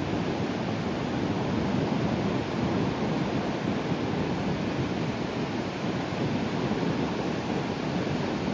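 Sea waves breaking and washing up the shore, a steady rushing surf, with some wind noise on the microphone.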